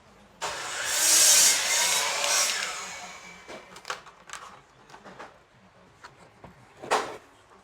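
A saw cutting through a piece of wood, one continuous cut that starts suddenly, lasts about two and a half seconds and fades out. A few light scrapes follow, and a sharp knock comes near the end.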